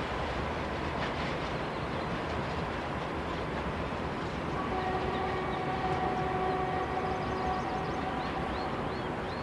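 Freight train rolling past with a steady rumble and rush of wagons on the rails. About halfway in, a steady pitched tone of several notes joins and holds for about four seconds.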